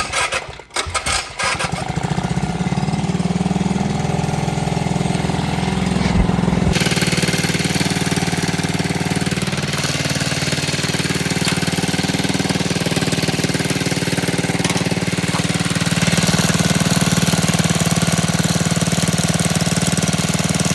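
Minibike's small engine running at a steady speed, with a broad hiss rising over it about seven seconds in.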